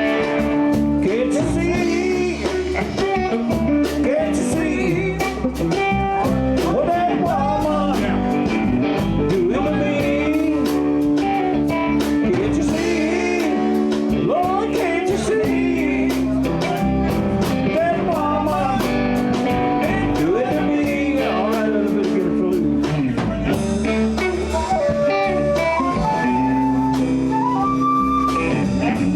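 Live blues band playing an instrumental stretch: guitars, bass and drums keeping a steady beat, with a bending lead line over them.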